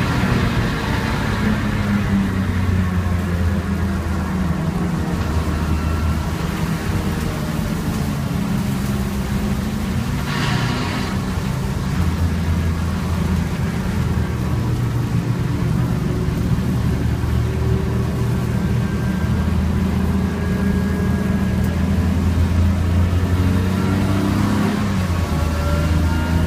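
BMW E36 328i's 2.8-litre straight-six heard from inside the cabin. Its note falls as the car brakes and downshifts at the start, runs lower through a slow section with a brief rush of hiss about ten seconds in, then rises again as it accelerates near the end.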